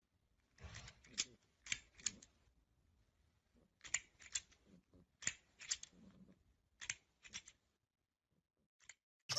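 A faint series of short, sharp clicks, coming in quick groups of two or three about every second and a half, with a last single click near the end.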